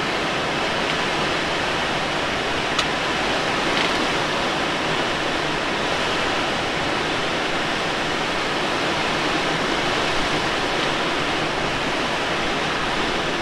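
Steady rush of air streaming over a Let L-13 Blaník glider's cockpit in flight, with one faint click a little before three seconds in.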